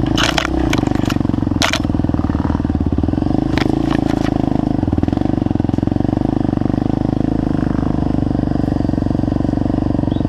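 Trail motorcycle engine running steadily at low revs, with a few sharp clacks in the first two seconds.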